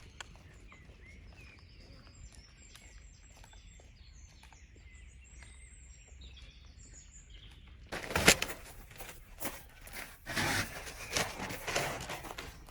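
Small birds chirping faintly over a quiet background. About eight seconds in, loud, irregular rustling and crunching begins, with a sharp knock at its start.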